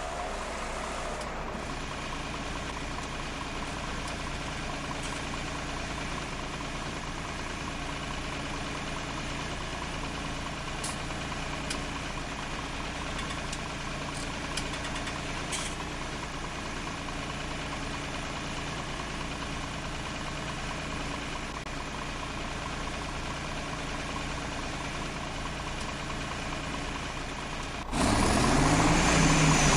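An old tractor engine, brought back to life after 28 years standing, idling steadily. About two seconds before the end it jumps abruptly louder, the pitch rising and falling.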